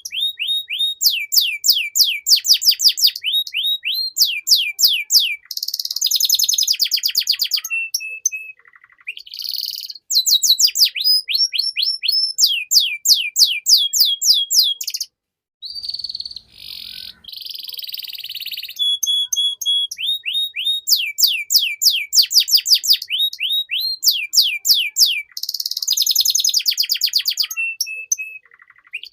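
Domestic canary singing a long song of fast trills, each made of rapidly repeated downward-sweeping notes, mixed with buzzy rattles and a few held notes. There is a brief break about halfway through.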